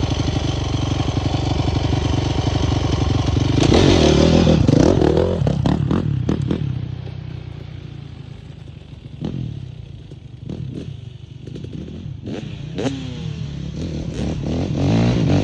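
Dirt bike engine running, revving hard about four seconds in, then fading as it moves away, with a few sharp knocks. It grows louder again near the end.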